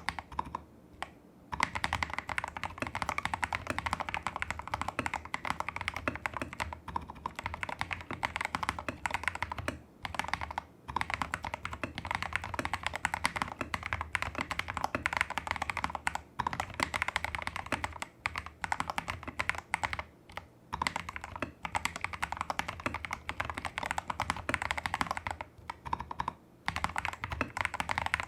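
Fast, continuous typing on a custom mechanical keyboard with lubed tactile Holy Panda–style switches, modded stabilizers and XDA-profile keycaps: a dense run of key clacks broken by a few brief pauses.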